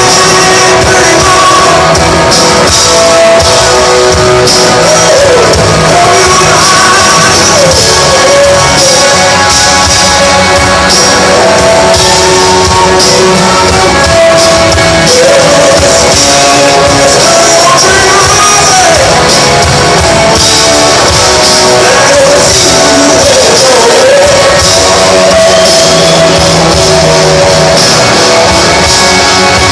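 Live blues-rock band playing loud and steady, with a lead line sliding and bending up and down in pitch over the backing.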